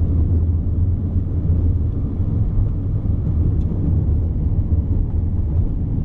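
Car driving at a steady speed: an even, low rumble of engine and road noise.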